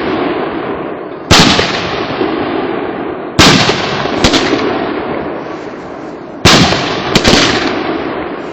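Fireworks shells bursting overhead: three loud booms two to three seconds apart, the second and third each followed by a smaller report, with a long rumbling echo fading after each.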